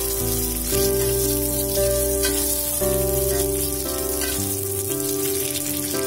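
Oil sizzling as chilies, shallots, garlic and tomato fry in a wok, over background music with steady held notes that change about once a second.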